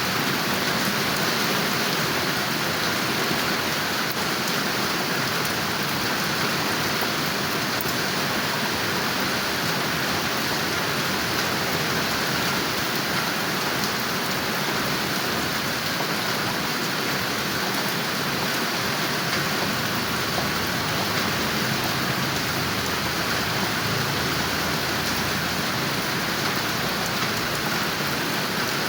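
Steady, heavy rain falling and pattering on surfaces, an even hiss with no breaks.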